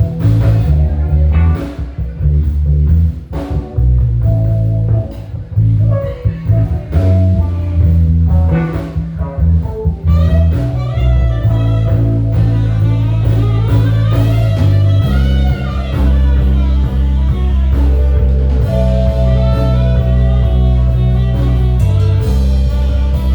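Live band playing an instrumental passage: guitar lead over bass guitar and drum kit, in a blues/jazz vein. The first ten seconds or so are choppy with drum hits, after which the bass settles into long held notes.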